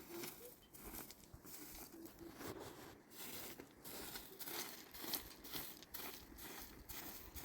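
Irregular rustling and crinkling, as of dry material being handled or brushed.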